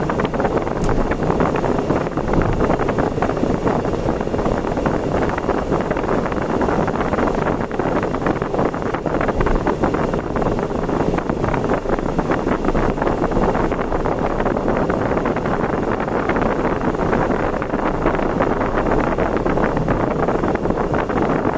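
Steady wind and road noise of a vehicle travelling at speed on an expressway, with wind buffeting the microphone.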